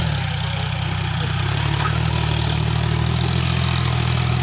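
John Deere tractor's diesel engine running at a steady low idle, its pitch dropping slightly right at the start as the revs come down.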